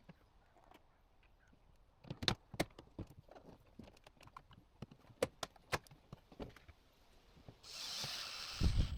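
Scattered sharp knocks and clicks of objects being handled, then about a second of hiss and a run of heavy thumps near the end.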